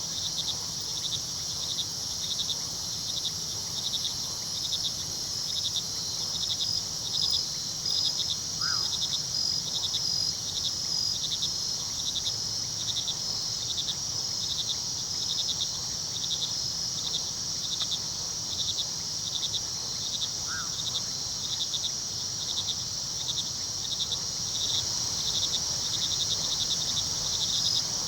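Night chorus of crickets chirping steadily in fast, regular pulses over a constant high insect trill, with a low rush of river water underneath. A short, rising call sounds twice, about a third of the way in and again past the middle.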